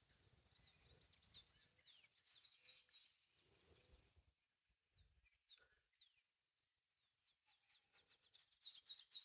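Faint birds chirping: short, high, quick chirps in scattered clusters, busiest near the end.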